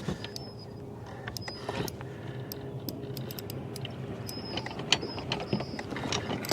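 Fishing reel being cranked against a hooked fish, with many quick irregular clicks and ticks over a steady low hum.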